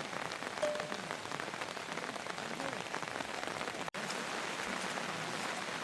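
Heavy rain falling steadily, with dense pattering drops striking surfaces. The sound cuts out for an instant about two-thirds of the way through.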